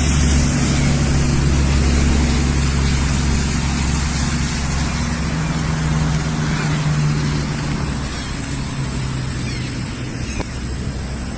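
A motor vehicle's engine running steadily with road and wind noise, its low hum easing a little in the second half.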